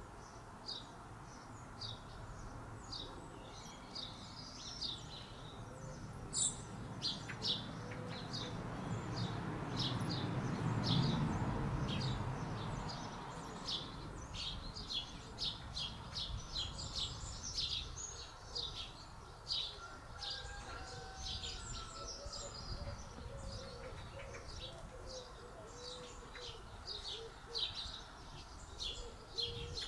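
Small birds chirping over and over in quick, short calls. Around the middle a low rumble swells up and fades away again.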